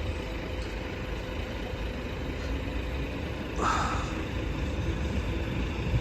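DART electric train standing at the station with its motors and equipment giving a low steady rumble and a faint hum, about to depart. A short hiss comes a little past halfway through.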